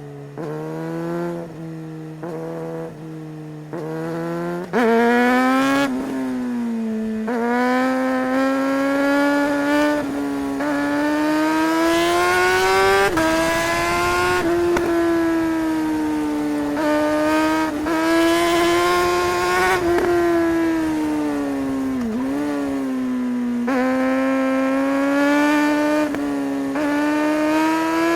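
Suzuki GSR600's inline-four engine under hard riding, revving up and down through the gears. Rising runs in pitch are cut by quick clipped upshifts from the quickshifter, with a few brief rev spikes where it drops down a gear. It is quieter at first, then much louder from about five seconds in.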